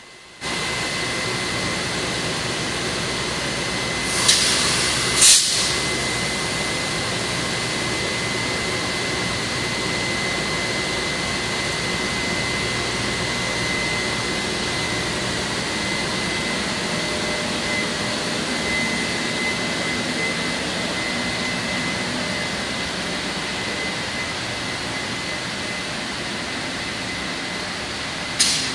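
Train locomotive standing and then slowly pulling out, with a steady machinery hum and a thin high whine. Two short hisses come about four and five seconds in, and another near the end.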